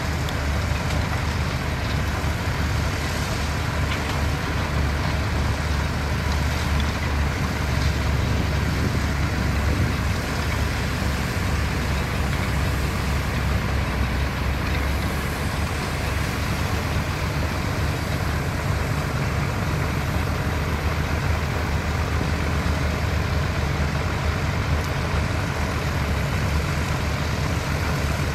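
Heavy diesel construction machinery, bulldozer and dump truck engines, running steadily with a deep, even drone.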